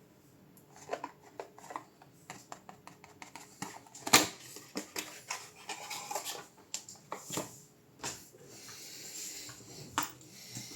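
Small hard parts being handled on a work surface: a quick run of light clicks and clinks, a louder knock about four seconds in, then rubbing and scraping near the end.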